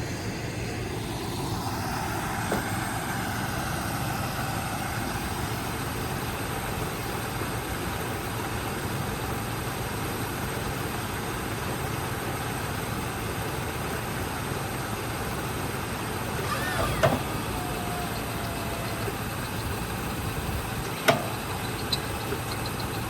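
Engine of a 1973 Chevy K20 pickup idling steadily after sitting for about 20 years, running smoothly without an obvious misfire. Two brief sharp clicks stand out, one about 17 seconds in and another about 21 seconds in.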